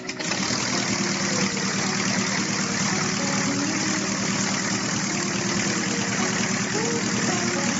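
Engine of a small homemade airplane running steadily.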